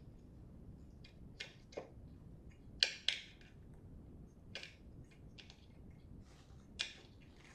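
Faint, scattered clicks and light taps of metal bolts and parts being handled as bolts are started by hand into the bike's leg mount, with two louder clicks about three seconds in.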